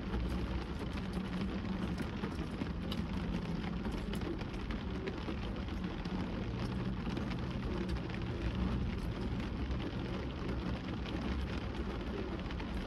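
Rain pattering on a car's roof and windows, heard from inside the cabin: a steady hiss dotted with many small drop ticks, over a steady low hum.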